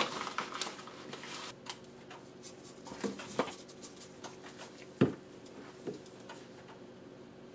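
Light taps and scrapes of a utensil against a small container as kaolin clay is added to soap batter, with a sharper knock about five seconds in.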